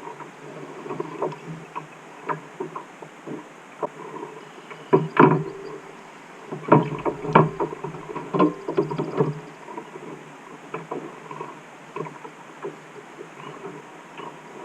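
Irregular knocks and clatter from gear being handled in a fishing kayak, busiest about five seconds in and again from about seven to nine and a half seconds.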